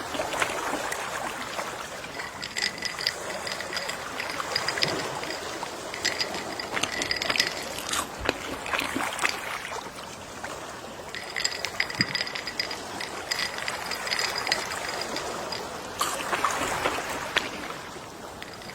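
Gentle sea waves washing and lapping on the shore, the water noise swelling and easing, with small scattered splashes and a faint high steady tone that comes and goes twice.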